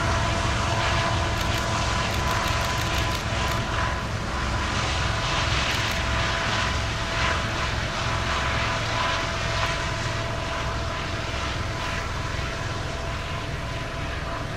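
Freight train running away into the distance: the diesel locomotive's low drone and the rush and rumble of the cars on the rails, with a faint steady whine, slowly fading.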